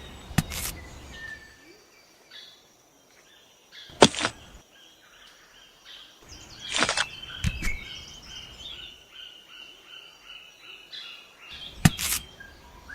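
Birds chirping in short high calls, broken by several sharp knocks.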